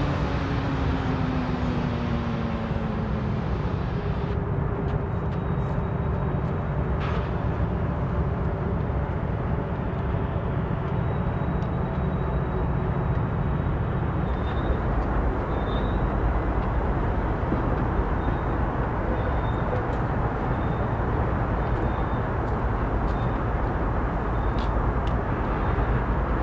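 Freight train heard at a distance as a steady low rumble, with a falling drone in the first few seconds. A faint high tone repeats about once a second from about halfway on.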